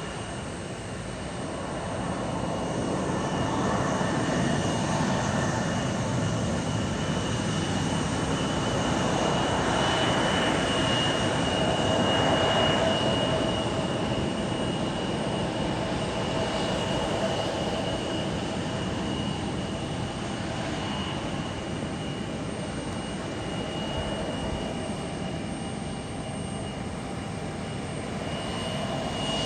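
Jet airliner engines running, with a steady high whine over a rushing noise that swells to its loudest about twelve seconds in and then slowly fades.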